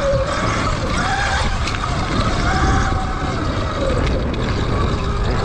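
Motorbike riding past or under the rider, its motor pitch rising and falling, with heavy wind rumble on the microphone.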